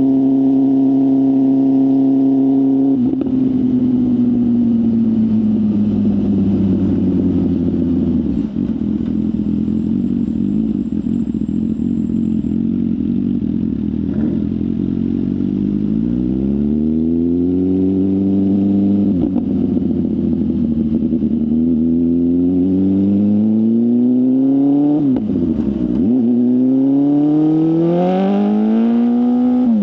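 BMW S1000RR inline-four with a full exhaust system. It holds a steady cruise, then the throttle closes and the revs sink slowly for several seconds. It then accelerates through the gears, the pitch climbing and dropping back sharply at each of three upshifts.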